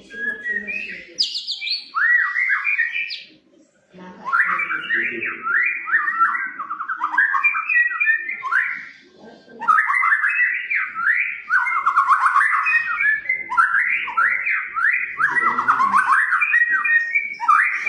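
White-rumped shama (murai batu) singing in long runs of rapid, varied whistled phrases, with short pauses about four seconds and about nine seconds in.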